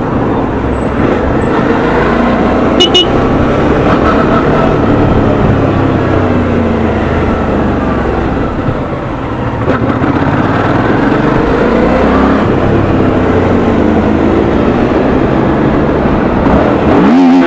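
Suzuki V-Strom 650's V-twin engine pulling hard under throttle while riding, its note rising and falling repeatedly as the revs climb and drop through the gears, with a sharp swing in pitch near the end.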